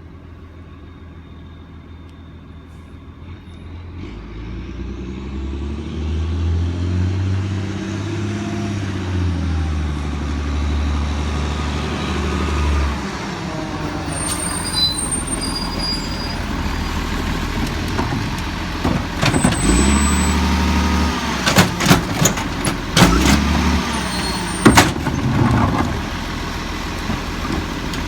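Garbage truck collecting compost: its diesel engine grows louder as it pulls up, with squeals of the air brakes as it stops. About twenty seconds in come a run of loud bangs and clanks as the cart is lifted and emptied, over the running engine.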